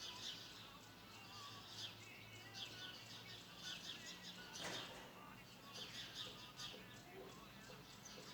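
Many small birds chirping over one another, faint, in short repeated calls.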